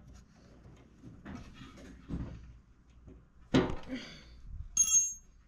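Hand-work sounds of metal parts being handled: light rustling and clatter, a sharp knock about three and a half seconds in, then a short, high, bell-like metallic ring as a small metal part is struck.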